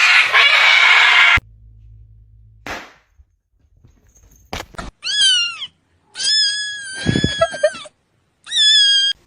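A burst of loud rushing noise that cuts off suddenly, then a cat meowing three times: a short falling meow, a long drawn-out one, and a short one near the end.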